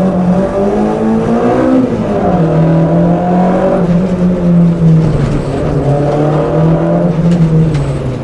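Peugeot 106 Rallye's four-cylinder engine heard from inside the cabin as the car is driven hard through a slalom. Its pitch climbs for about two seconds, drops sharply as the revs fall, then rises and falls back twice more.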